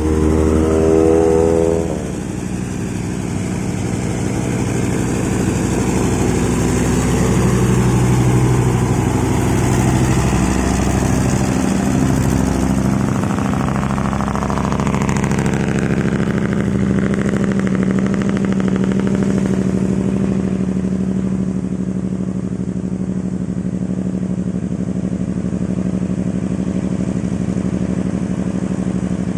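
Heavy diesel truck engine labouring up a steep climb under load, a steady loud drone. A louder, higher pitched tone stops about two seconds in.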